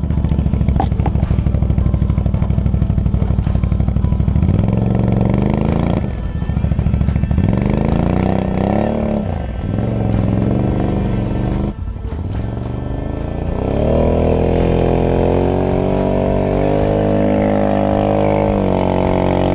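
Can-Am Outlander 650 ATV's V-twin engine revving hard while pushing through deep snow, its pitch rising and falling over and over. It settles into a higher, steadier pitch about two-thirds of the way through.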